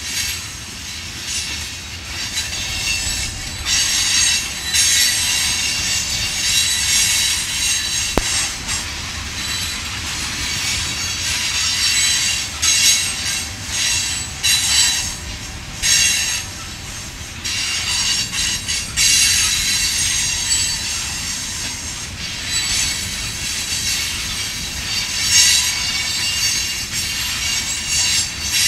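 Empty rock hopper cars of a freight train rolling by. Their steel wheels squeal against the rail in the curve, in high tones that swell and fade every few seconds over a steady low rumble of the cars.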